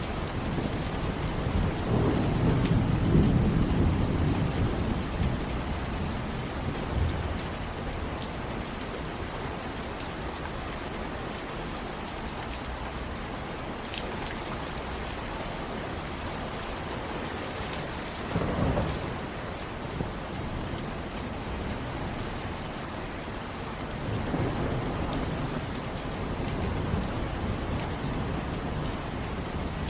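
Steady heavy rain falling, with low rumbles of thunder rolling in three times: a long one a few seconds in, a shorter one past the middle, and another near the end.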